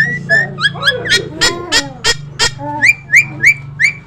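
Jalak Nias myna calling: a fast run of loud whistled notes, most of them sliding upward, broken by sharp clicking snaps in the middle, then a rising whistle repeated about three times a second near the end, over a steady low hum.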